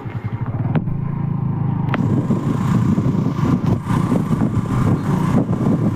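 An engine running steadily, with a couple of sharp clicks in the first two seconds.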